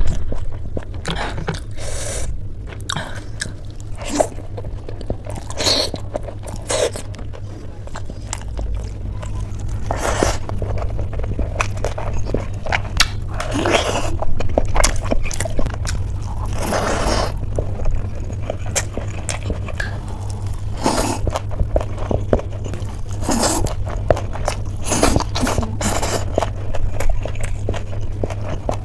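Close-miked eating: a person chewing and smacking wet mouthfuls of steamed dumplings, and later rice and gravy eaten by hand, with frequent sharp mouth clicks and crunchy bites. A steady low hum runs underneath.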